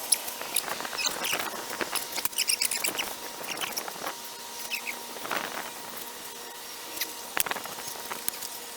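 Irregular light clicks, taps and short squeaks, with two sharper, louder strokes, one past the middle and one near the end.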